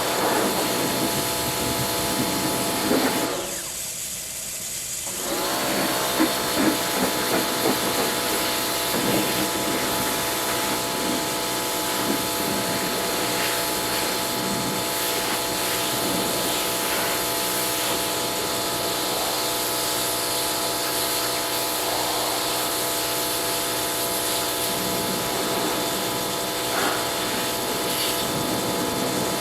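Pressure washer running: a steady motor whine with the hiss of spray. It cuts out about three and a half seconds in and winds back up about a second and a half later, as the trigger is released and squeezed again.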